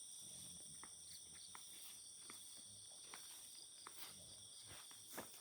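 Faint, steady chorus of night insects such as crickets, an unbroken high-pitched trill, with scattered soft clicks and taps, one a little louder near the end.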